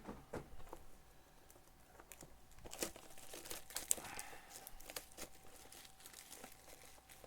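Plastic shrink wrap crinkling and tearing as a sealed trading-card box is unwrapped by hand, with irregular crackles and one sharp snap about four seconds in. A faint steady hum sits beneath.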